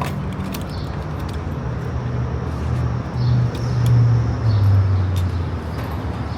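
A vehicle engine running with a low hum, growing louder and dropping in pitch around the middle, with scattered light clicks over a gas station forecourt.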